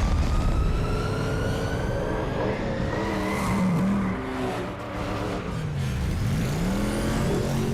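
Car engines revving and accelerating, the engine pitch climbing steadily over the first three seconds, then dipping and rising again about six seconds in.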